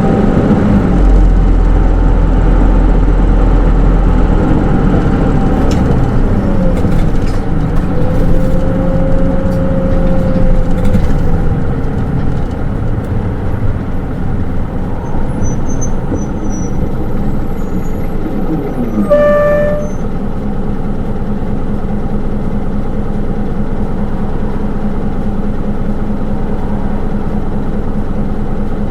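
Hino Rainbow II (SDG-KR290J1) city bus's diesel engine heard from inside the cabin while the bus is under way, its pitch rising and falling as it pulls and changes gear, loudest in the first dozen seconds. A short electronic chime sounds about two-thirds of the way in, and after it the engine runs on at a steadier, lower note.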